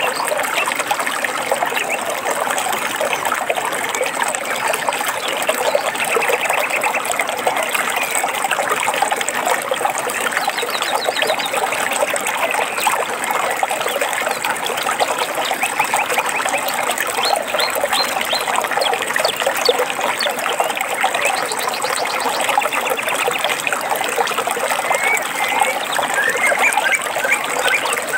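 Stream water trickling and babbling steadily, with birds chirping and trilling briefly over it several times.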